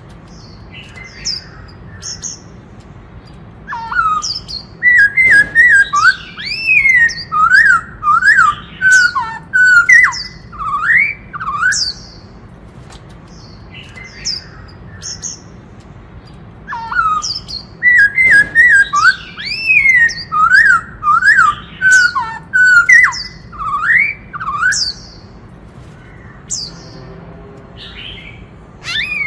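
Black-throated laughingthrush singing: two bouts of loud, rapid whistled phrases that swoop up and down, each about eight seconds long and a few seconds apart, with short higher chirps in between.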